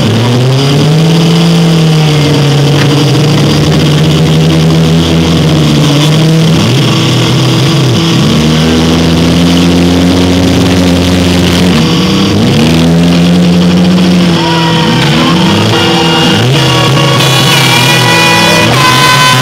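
Engines of several four-cylinder demolition derby cars running loud and revving, their pitch sliding up and down as the cars accelerate and back up.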